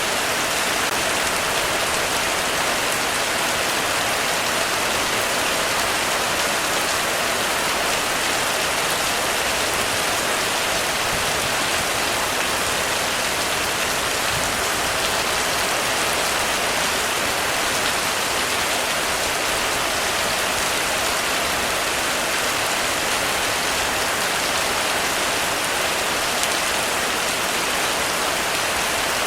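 Heavy rain falling steadily on a roof, a dense, even patter.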